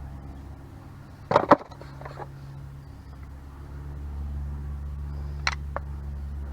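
Two loud, sharp knocks about a second and a half in and two lighter clicks near the end, over a steady low hum.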